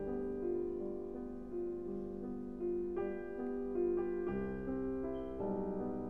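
Background piano music, a melody of single notes changing about twice a second.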